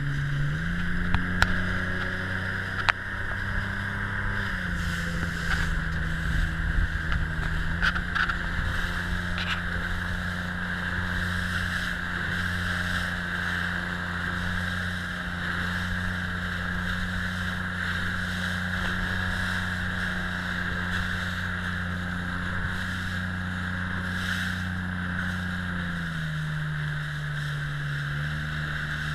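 Motorboat engine running steadily. Its pitch rises about a second in, dips briefly around four seconds and settles lower near the end as the throttle eases.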